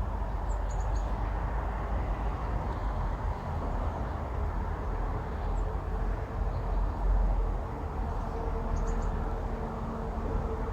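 Steady low rumble of road traffic on the bridge overhead, with a faint steady hum coming in about halfway through and a few faint high chirps near the start and near the end.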